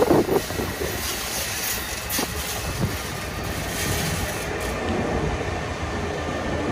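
New Amtrak Acela (Alstom Avelia Liberty) trainset passing at speed, giving a steady rush of wheel and rail noise. A few loud low thumps come right at the start.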